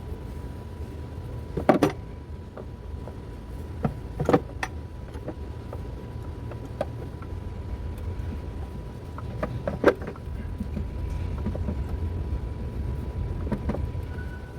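Parts and hand tools knocking and clicking while a car's air cleaner housing is fitted back in place: a handful of sharp knocks spread out, the loudest about 2, 4½ and 10 seconds in. Under them run a steady low rumble and a faint steady high tone.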